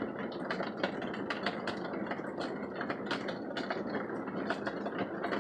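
Heavy rain pattering, a dense irregular run of drops ticking and clicking with no let-up.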